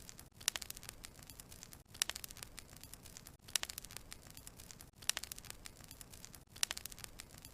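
Wood logs burning in a fireplace, crackling and popping. The crackles come in clusters about every second and a half, each a sharp snap followed by smaller ticks, over a faint hiss.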